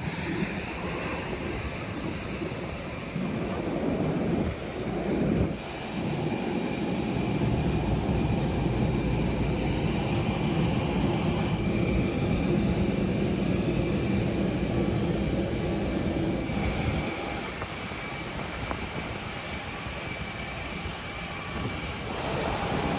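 Steady jet airliner noise: a constant high whine over a rumble. It dips briefly about five seconds in and grows quieter in the low end for the last third.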